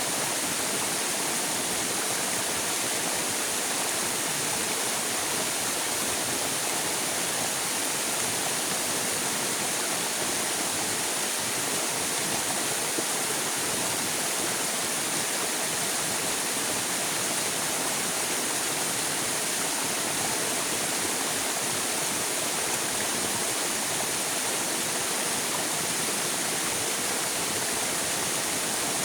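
River water flowing, a steady, even rush with a bright hiss and no breaks or splashes standing out.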